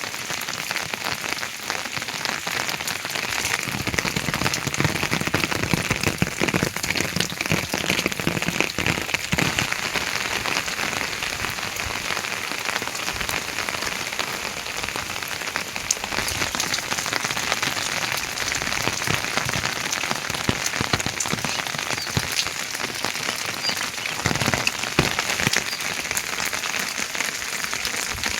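Heavy rain falling steadily, a dense patter of many drops striking surfaces.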